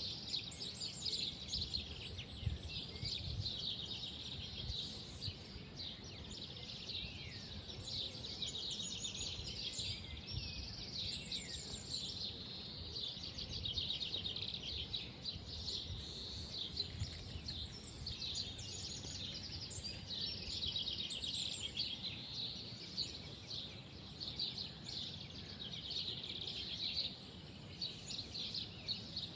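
Several birds chirping and trilling without a break, with a few falling whistled notes among them, over a low, steady background rumble.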